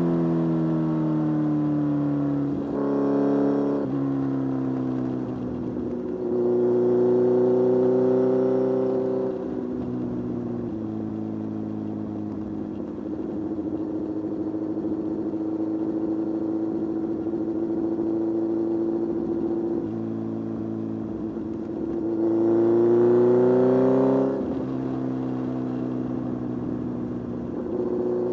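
Kawasaki Z1000 motorcycle's inline-four engine running on the road, revving up and falling back in pitch several times, with long stretches at a steady engine speed between.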